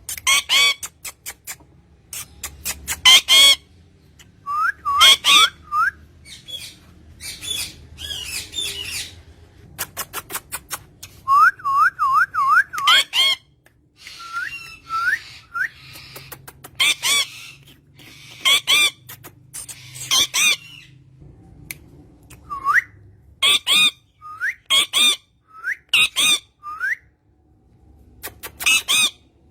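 Green parrot calling: repeated short, harsh squawks, with runs of quick rising whistles in between, several in a row around the middle.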